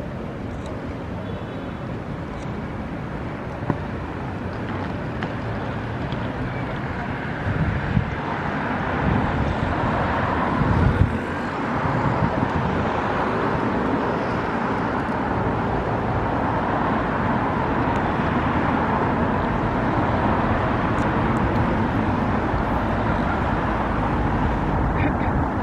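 Road traffic noise: a steady rumble that grows louder about eight seconds in.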